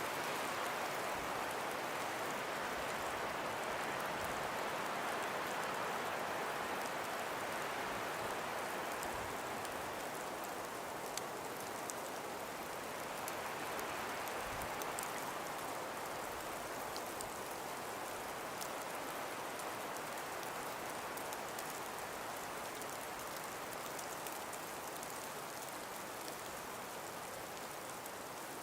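Calm breeze moving through frosted, ice-covered forest trees: a steady soft rushing that swells gently early on and eases off slowly, with faint scattered light ticks.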